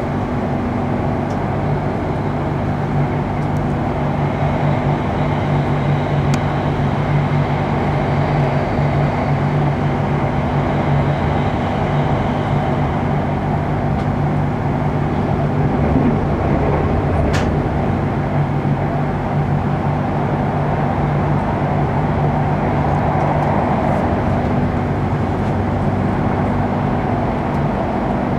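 Steady running noise inside the carriage of a moving electric express train on the Bangkok Airport Rail Link: a constant rumble of wheels on rail with a steady low hum. Two brief clicks sound, one about six seconds in and one about seventeen seconds in.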